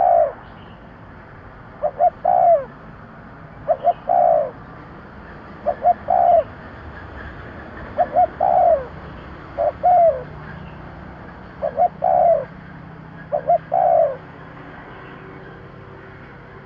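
Spotted dove cooing: its phrase of two short notes and a longer falling coo, repeated eight times at about one every two seconds, stopping a little before the end. It is the male's territorial call, used as a lure call to draw in wild doves.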